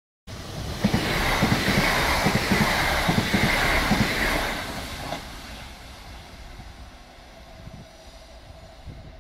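Electric passenger train passing close at speed, its wheels clattering rhythmically over the rails. The sound starts abruptly, is loudest in the first few seconds, then fades as the train recedes, leaving a quieter rumble with a faint steady tone.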